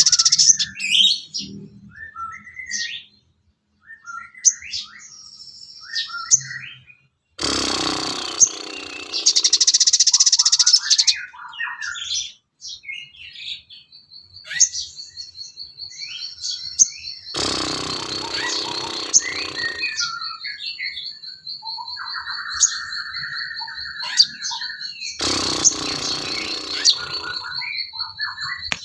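Recorded songbird calls used as filler material for training a cage bird: a mix of short chirps and whistles, loud harsh calls about a quarter, two-thirds and nine-tenths of the way through, and a steady rapid high trill that starts about halfway in and runs on.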